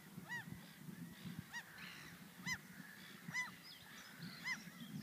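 A bird, goose-like, giving five short rising-and-falling honking calls, about one a second.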